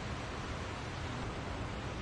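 Steady rushing of falling water from a waterfall, an even unbroken roar.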